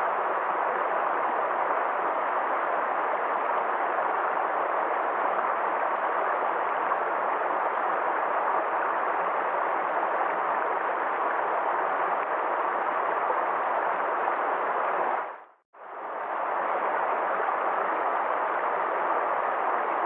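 Water flowing and rushing down a valley stream, a steady even rush. It drops out for a moment about fifteen seconds in, then returns.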